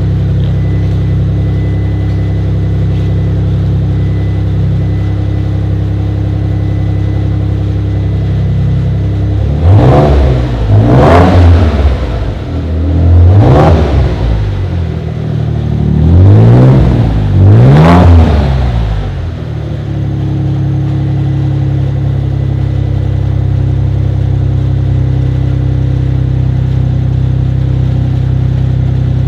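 1993 Mitsubishi 3000GT VR4's twin-turbo V6 idling through a new Revel Medallion Touring-S catback exhaust. About a third of the way in it is revved five times in quick blips over roughly ten seconds, then settles back to a steady idle.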